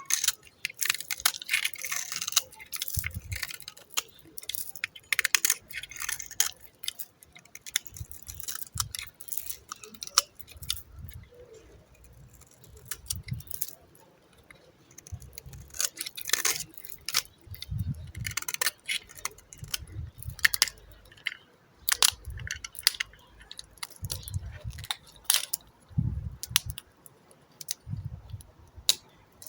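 Dry bar soap being cut and crumbled with a blade: dense, irregular crisp crackles and clicks, with soft low thumps now and then.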